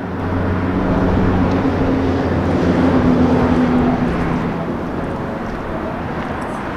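A motor vehicle's engine passing close by: a steady low hum that builds to its loudest about halfway through, then slowly fades.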